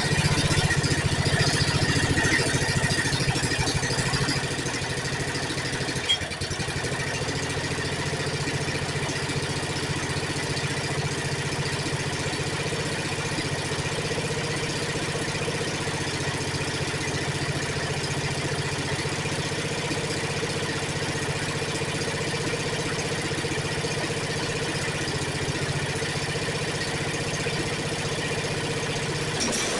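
Snapper riding mower's small gasoline engine running steadily, a little louder for the first four seconds and then settling to an even idle, with one sharp click about six seconds in. It is running on fresh fuel after a hard-start repair.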